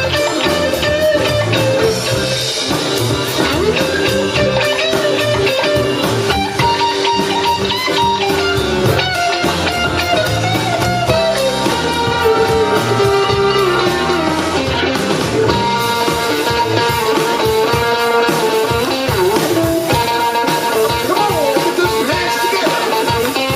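Blues band playing live, an electric guitar taking the lead with bent, gliding notes over the rest of the band.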